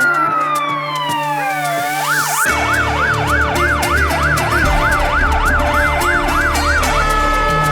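Fire engine siren: a slow rising and falling wail that switches about two seconds in to a fast yelp of about three cycles a second, then to a steady tone near the end.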